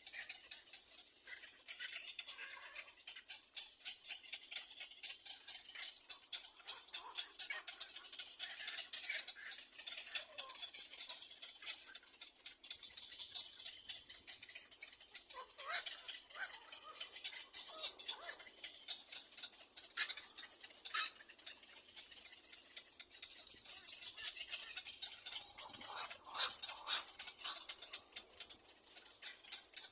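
Little egret chicks at the nest making a dense, rapid clicking chatter, with louder flurries about fifteen, eighteen and twenty-six seconds in.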